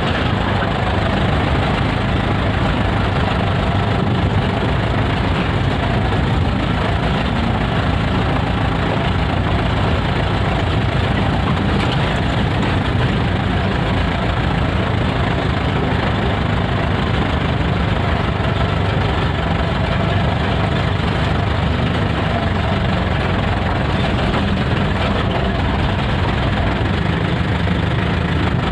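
Steady engine noise, a constant low drone that runs evenly without rising, falling or stopping.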